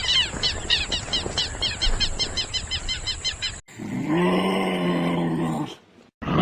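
Birds calling in quick repeated rising-and-falling calls, several a second. About three and a half seconds in these cut off abruptly and a deep animal call follows, held for about two seconds.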